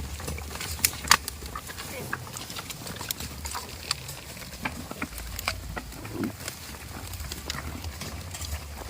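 Goats moving about: scattered sharp clicks and knocks over a steady low rumble, with a short low call about six seconds in.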